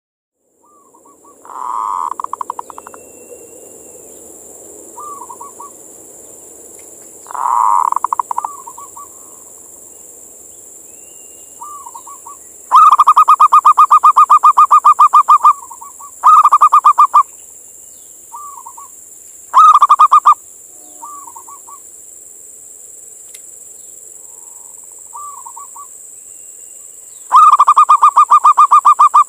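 Male zebra dove (perkutut) calling: bouts of rapid, trilled cooing notes, softer at first, then several loud, longer bouts from about halfway through. A steady high hiss runs underneath.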